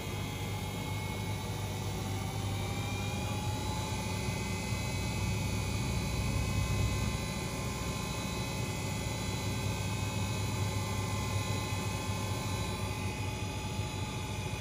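Washing machine speeding up into a spin, around 800 rpm. A motor whine rises in pitch over the first few seconds and then holds steady over a low drum rumble.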